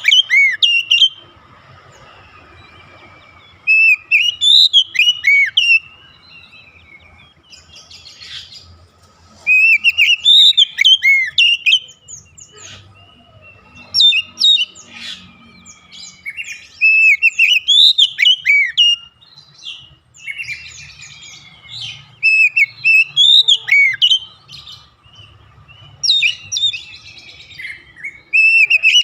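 Oriental magpie-robin (kacer) singing loud phrases of quick, up-and-down whistled notes, each about two seconds long and repeated roughly every four seconds, with quieter chirps between the phrases.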